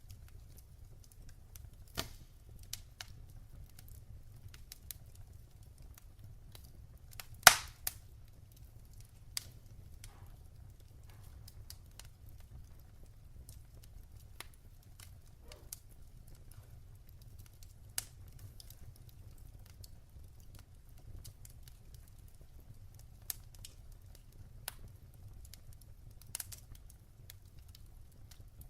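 Wood fire in a fireplace crackling: irregular sharp pops, the loudest about seven and a half seconds in, over a low steady rumble.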